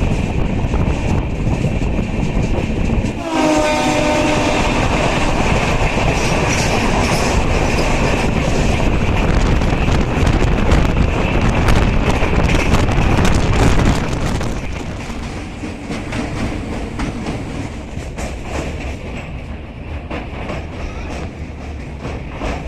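Passenger train running on the rails, a steady rumble and clatter of wheels. A train horn sounds about three seconds in, and the running noise drops somewhat about fourteen seconds in.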